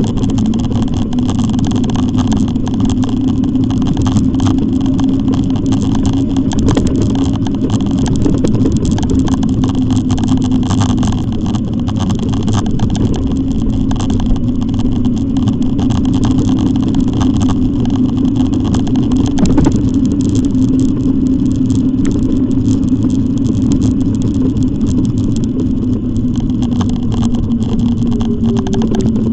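E-bike in motion: a steady motor hum that shifts a little in pitch, under wind and road noise.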